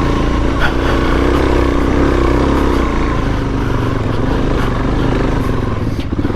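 Suzuki DRZ400S dual-sport motorcycle's single-cylinder four-stroke engine running steadily at low trail speed, easing off about five and a half seconds in.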